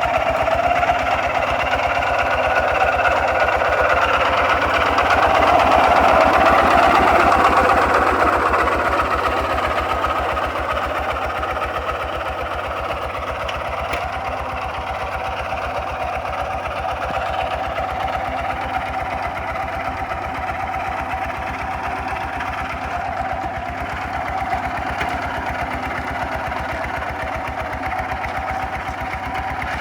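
Kubota RT 140 DI single-cylinder diesel engine on a two-wheel walking tractor, running steadily with a fast, even chugging while plowing. It gets louder for a few seconds about five seconds in, then settles slightly quieter.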